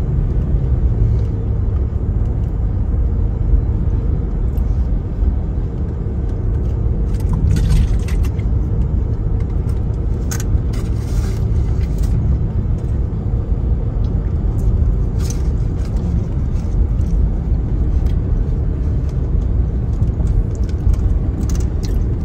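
Steady road and engine rumble of a moving car, heard from inside the cabin, with a few brief clicks or rattles in the middle.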